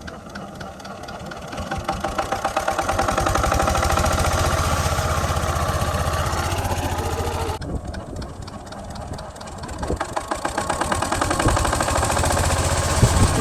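Diesel water-pump engine running with a fast, even knocking beat, getting louder over the first few seconds. It drops away sharply about seven and a half seconds in, then builds up again.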